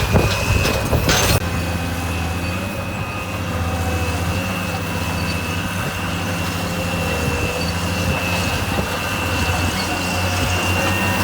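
Diesel engine of heavy earthmoving equipment running at a steady speed, with a steady high whine above the engine note. A few sharp knocks sound in the first second and a half.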